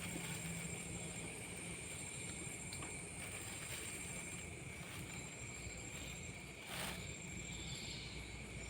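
Night insects trilling steadily at two high pitches over a low rumble, with a short knock about seven seconds in.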